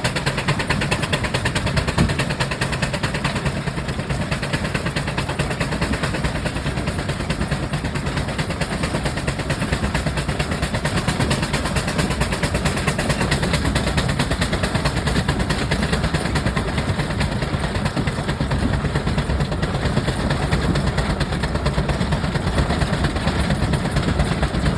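Burrell steam traction engine running on the road, with a rapid, steady beat of evenly repeated knocks.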